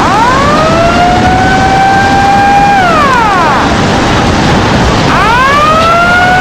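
Outdoor tsunami warning siren wailing: its pitch rises, holds steady for about a second and a half, falls just after three seconds in, then begins rising again about five seconds in. A loud steady rushing noise runs underneath.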